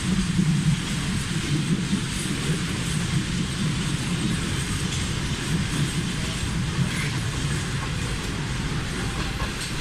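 Passenger train rolling along the track as it arrives at a station: a steady, continuous noise of wheels and carriages.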